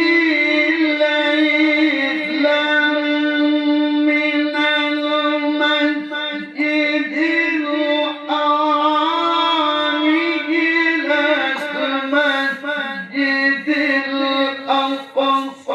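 A male Qur'an reciter's voice holding one long, ornamented melodic phrase in tilawah style, the pitch bending and turning through many small runs, with brief breaks near the end.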